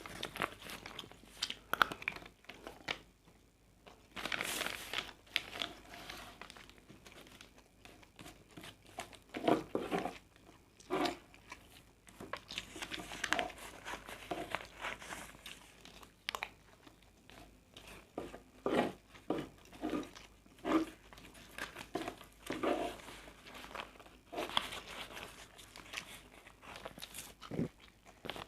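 A person eating nasi goreng close to the microphone: irregular chewing, lip smacks and crunchy crackling bites.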